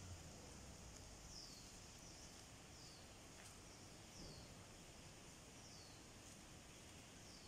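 Near silence in woodland: a bird repeats a short, high, falling call about every second and a half over a faint steady high hiss.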